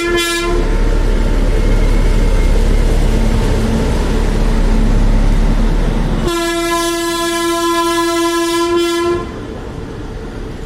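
Train horn ending just after the start, then the loud rumble of a train running close by, then a second long horn blast of about three seconds that cuts off suddenly, after which the rumble is much quieter.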